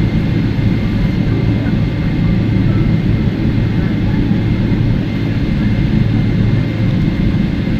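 Cabin noise of a Boeing 777-300ER taxiing: a steady low rumble from its GE90 engines at taxi power, with a faint steady high whine over it.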